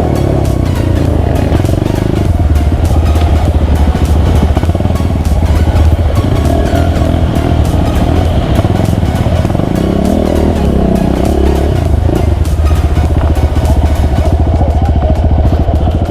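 Off-road motorcycle engine running at fairly steady revs, loud and continuous.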